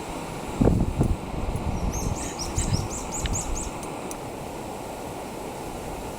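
Wind buffeting the microphone, gusting hardest about a second in, while a small bird gives a quick run of about eight high, falling chirps in the middle.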